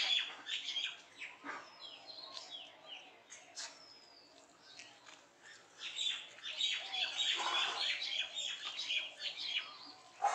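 Birds chirping and twittering in quick runs of short, high calls, busiest at the start and again from about six seconds in.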